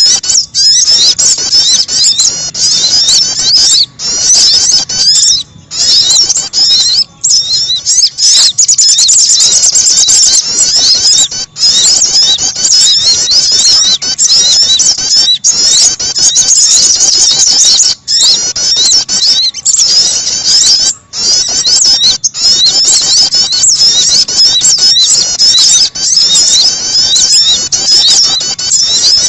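A bird-lure recording of small songbirds, sogon and prenjak (prinia) calls, chirping rapidly and continuously in dense overlapping high-pitched twitters. There are brief breaks every few seconds.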